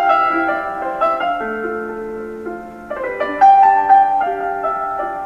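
Background piano music, notes and chords struck one after another and left to ring.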